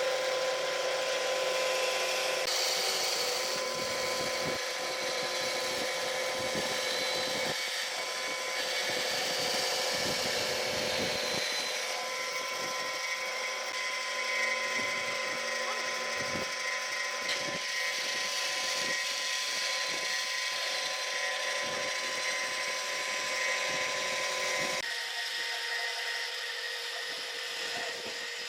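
An electric power tool runs steadily on woodwork, with irregular low knocks over it from a couple of seconds in. The sound changes slightly a few seconds before the end.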